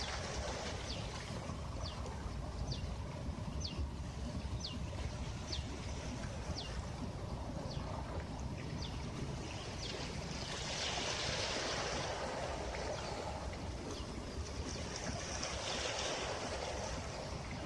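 Sea waves washing on a beach, a steady surf with two swells as waves break and run up, about two-thirds of the way in and again near the end. Over the first half, a series of short, high, falling whistles comes about once a second.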